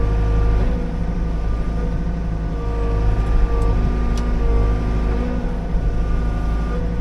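Liugong 9051F mini excavator running steadily, its diesel engine droning under a whine that steps up and down in pitch every second or so as the hydraulics are worked.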